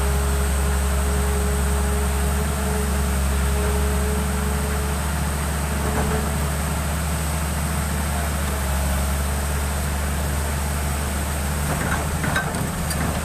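Excavator's diesel engine running steadily, with a thin steady whine over the first five seconds and a few sharp knocks near the end.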